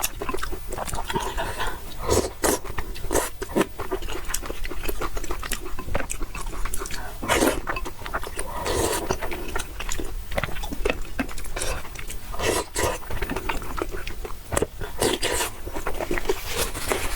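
A person eating noodles, chewing with many short, wet clicks and smacks.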